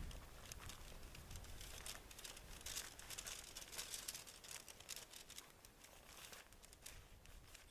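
Faint crinkling and rustling of something being handled, in quick irregular crackles that fade near the end.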